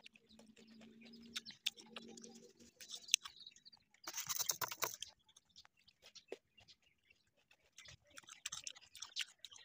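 A person chewing mango slices with close, wet mouth clicks, humming a low 'mmm' for the first couple of seconds. A brief louder rustle about four seconds in, as a slice is dipped in salt on a plate.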